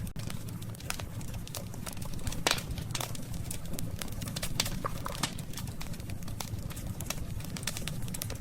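Burning wood fire crackling, with irregular sharp pops and snaps over a steady low rumble; the loudest pop is about two and a half seconds in.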